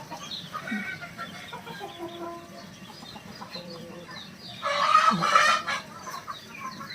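Chickens clucking in short scattered calls, with one louder, longer squawk about five seconds in.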